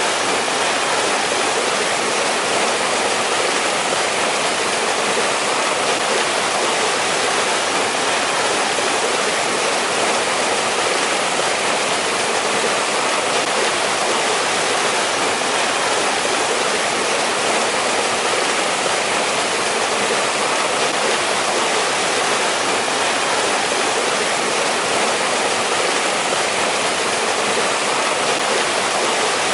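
Mountain stream rushing and splashing over rocks, a steady, even water noise with no breaks.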